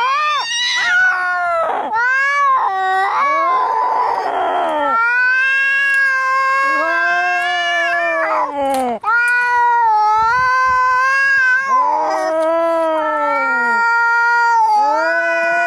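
Domestic cats caterwauling in an angry standoff: long, drawn-out yowls that waver up and down in pitch, one call after another. A hissing spit breaks in about four seconds in.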